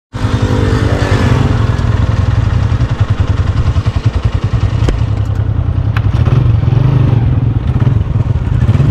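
125 cc single-cylinder Honda motorcycle engines running hard at speed, a steady low drone with a rush of noise over it. A pitched tone falls over the first two seconds.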